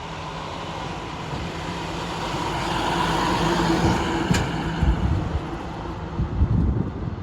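A motor vehicle's engine driving past close by, its noise swelling to a peak about halfway through and then easing off as it pulls away, with a single sharp click in the middle.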